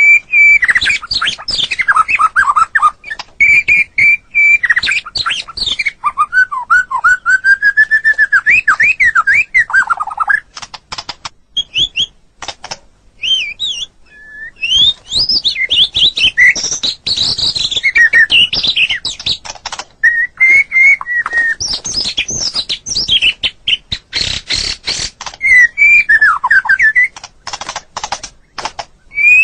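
White-rumped shama (murai batu) singing a long, varied song of rich whistles, rising and falling glides and trills, broken up by runs of rapid sharp clicks, with a brief lull about halfway through.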